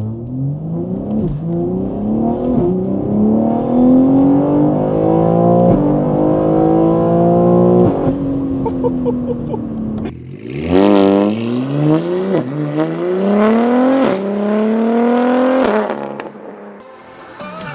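BMW G81 M3's twin-turbo S58 straight-six, fitted with catless downpipes and an equal-length midpipe, accelerating hard through the gears: the pitch climbs and drops sharply at each upshift. The exhaust note dies away briefly around ten seconds in, then comes back for another hard pull with three more upshifts before fading near the end.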